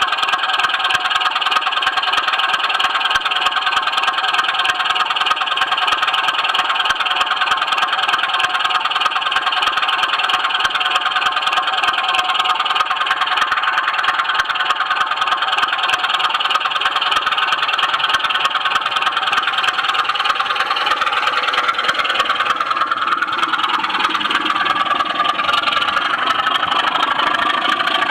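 Model train running on track, heard up close from a camera wagon: a steady whirr and rattle of small wheels and a loco's electric motor, with a fast stream of fine clicks. The tone shifts in the last few seconds.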